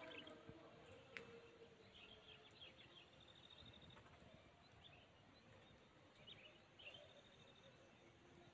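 Near silence: quiet rural outdoor ambience with faint, scattered high bird chirps and short trills.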